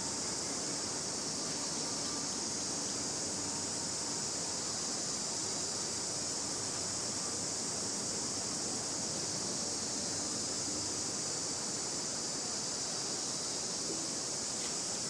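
Insects droning outdoors: an unbroken, even, high-pitched hiss with no breaks.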